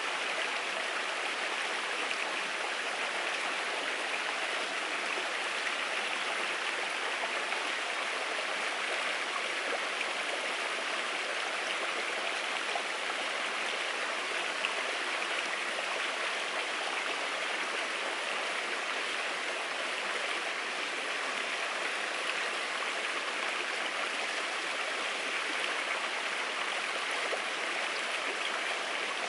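Steady rushing of running water, like a stream, holding an even level throughout.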